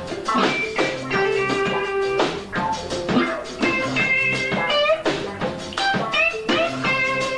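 Live rock band playing an instrumental passage: electric guitar lines over bass and a drum kit.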